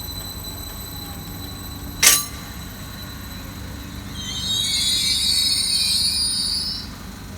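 A train running through a railway station with a low rumble and a faint high whine. A single sharp clack comes about two seconds in. About four seconds in, a loud, high metallic wheel squeal starts, rises slightly in pitch, and lasts about two and a half seconds.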